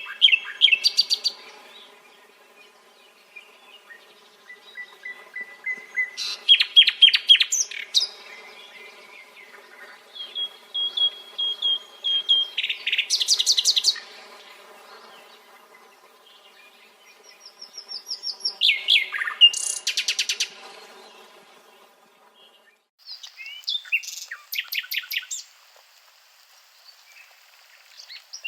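Nightingale singing: about five phrases a few seconds apart, each opening with a long, pure whistled note and breaking into a fast, repeated rattling trill. A faint steady hum lies underneath until about three quarters of the way through.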